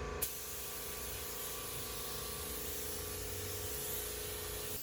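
Air-fed paint spray gun spraying: a steady hiss of air and atomised paint that starts abruptly when the trigger is pulled about a quarter second in, over a faint steady hum.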